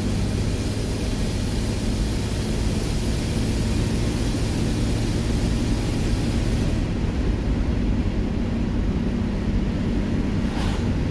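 1967 Ford Mustang's 200 cubic-inch inline-six, on a freshly rebuilt Holley 1940 one-barrel carburetor, running steadily at cruising speed, heard from inside the cabin under a steady rush of wind and road noise. The high hiss eases about seven seconds in.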